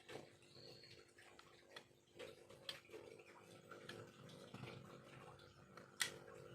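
Faint, irregular clicks and short scrapes of a small carving knife cutting and prying into bamboo, with one sharper click near the end.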